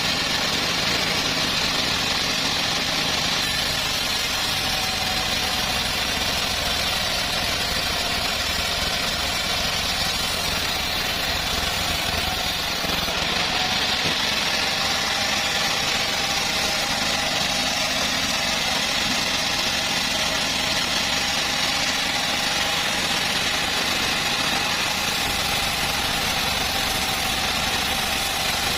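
Engine of a homemade bandsaw sawmill running steadily under a continuous high hiss, with no change in speed.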